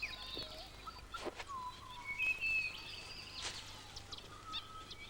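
Several birds calling, with short whistled notes and chirps over a low steady hum.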